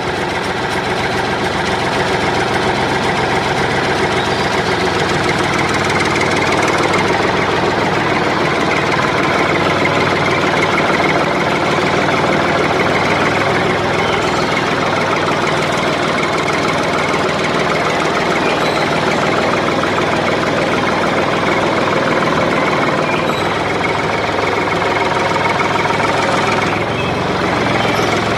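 An engine running steadily with a fast knocking beat, like a small engine ticking over.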